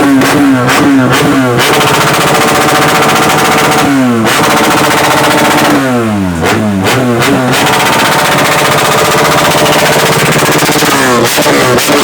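BMW R1200GS boxer-twin engine running with no exhaust fitted and revved hard: quick rising and falling blips at the start, around four seconds in, from about six to seven and a half seconds and again near the end, with long stretches held at high revs in between. It runs very loud and open.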